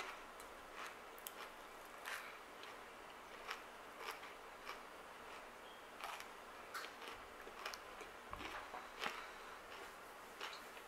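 Dry Kashi GoLean Chocolate Crunch cereal clusters being chewed with the mouth closed, close to the microphone: faint, irregular crisp crunches, about one or two a second.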